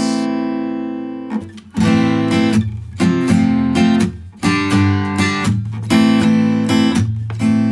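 Taylor 324ce acoustic guitar strummed in open chords, A minor, F and G, in a swung pattern with muted percussive chucks on beats 2 and 4 and chord changes pushed ahead of the beat. The last chord rings out and fades near the end.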